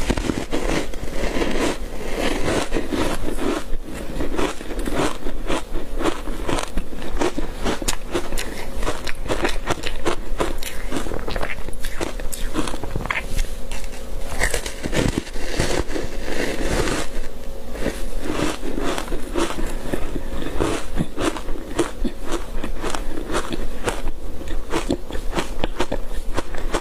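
Close-miked biting and crunching of frozen green-tea matcha powder ice, a dense run of crackling crunches one after another.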